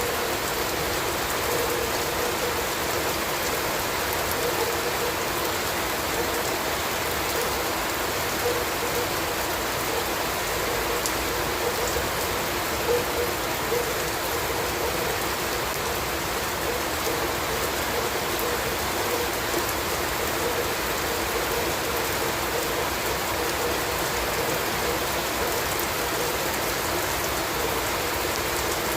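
Steady rain falling on a surface, an even hiss with a few scattered louder drop clicks.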